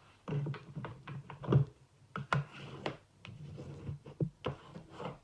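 Paper crafting by hand: a sheet of white cardstock being folded in half and handled on a desk, a series of taps, scrapes and rustles, the loudest about a second and a half in.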